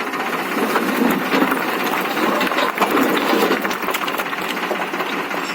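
Tractor engine running steadily, with scattered clicks and rattles over it.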